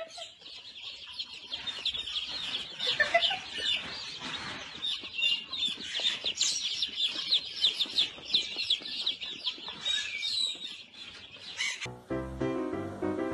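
Many birds peeping and chirping rapidly at a high pitch, thick and overlapping. Music starts near the end.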